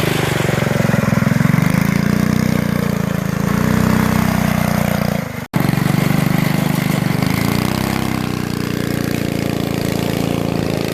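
Small engine of a 3x3 off-road mini bike running, its pitch rising and falling gently with the throttle. The sound drops out for an instant about five and a half seconds in, then carries on.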